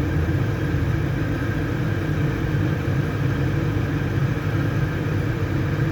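A motor running steadily at an even idle, with a low, unchanging drone.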